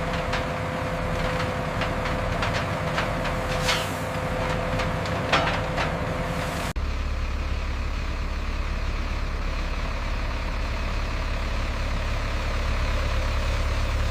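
Heavy diesel construction machinery running, with a few short squeaks and clanks over its steady drone. About seven seconds in, the sound cuts abruptly to a deeper, steadier engine drone.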